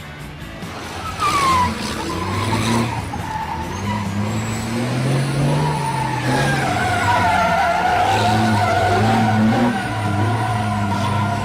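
Heavy truck's diesel engine labouring under load, with a high squeal that glides down about a second in and returns, held steady, from about six seconds on.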